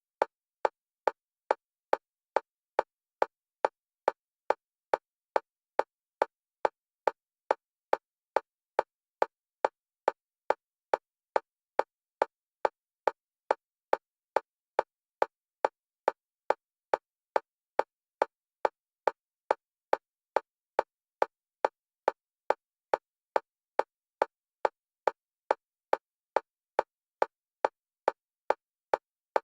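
Metronome clicks at a single pitch, short and evenly spaced at about two a second, alternating between the left and right stereo channels as bilateral stimulation for EMDR.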